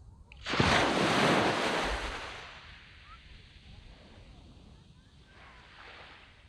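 A sea wave breaking on a sandy beach: a sudden rushing surge about half a second in that fades over the next two seconds into a softer steady wash, with a smaller swell near the end.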